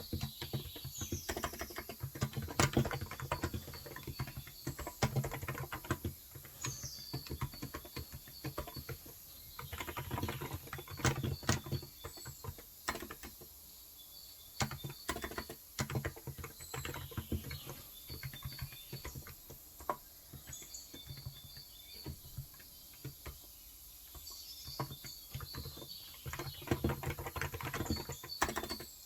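Typing on a Cox Endeavor electro-capacitive keyboard with 35 g switches: runs of quick keystrokes broken by short pauses, lighter through the middle. Birds chirp faintly in the background now and then.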